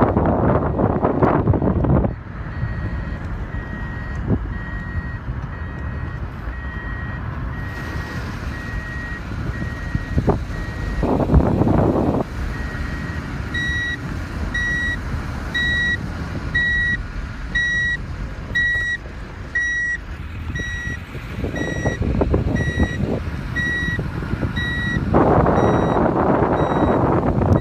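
Electronic warning beeper sounding about once a second, a high-pitched beep like a reversing alarm, over low vehicle rumble and gusts of wind noise on the microphone.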